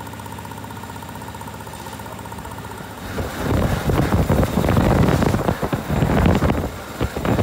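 1903 George Richards veteran car's engine running on the road, a steady hum at first; about three seconds in it turns much louder and rougher.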